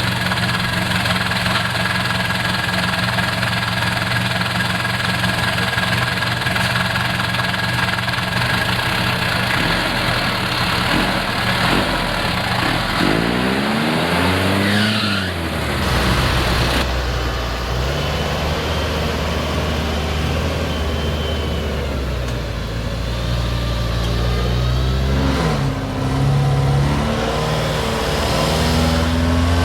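Off-road vehicle engine running, with its revs rising and falling about halfway through and changing again near the end.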